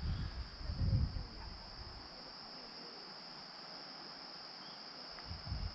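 A steady chorus of insects, one unbroken high shrill note. Low rumbles come in the first second and a half and again near the end.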